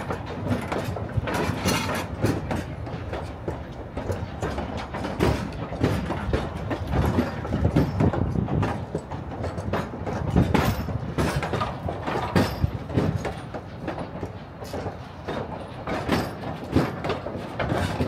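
Durango and Silverton narrow-gauge train rolling past, its wheels clattering and clicking irregularly over the rail joints above a steady running rumble.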